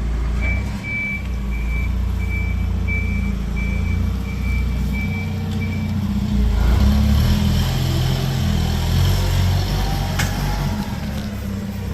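A vehicle's reversing alarm beeps about twice a second over a steady engine hum, then stops about halfway through while the engine keeps running.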